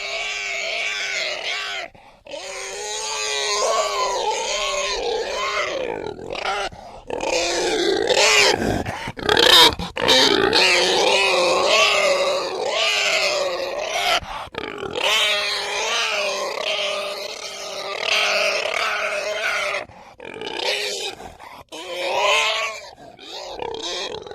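Pigs grunting and squealing in a near-continuous run of calls, with short breaks about two, seven and twenty seconds in.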